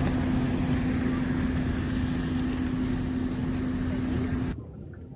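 A running vehicle's steady noise with a constant low hum, cut off abruptly about four and a half seconds in.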